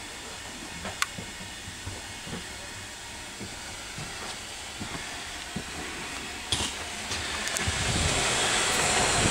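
Railway coaches heard from inside a heritage steam train's compartment: a couple of sharp metallic knocks, then from about seven seconds a rising rumble and hiss as a train's coaches roll past close alongside.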